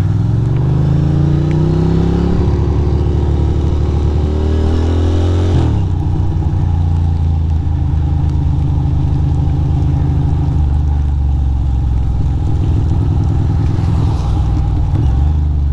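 Ducati Monster's V-twin engine pulling away, its pitch rising for about five seconds, then dropping sharply at a gear change and running steadily at cruising speed.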